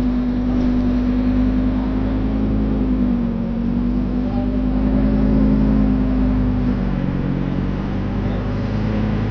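A car engine running steadily with a strong, even hum; its pitch dips and wavers slightly about three seconds in and the sound thins a little near the end.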